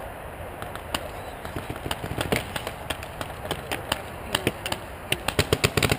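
Paintball markers firing: scattered pops at first, then a rapid string of shots near the end.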